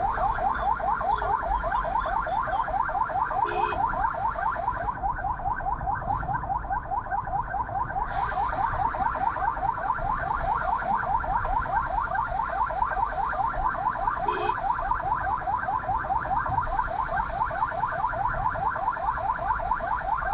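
Electronic emergency-vehicle siren sounding in a fast yelp, rising sweeps about five times a second without a break, over a low rumble.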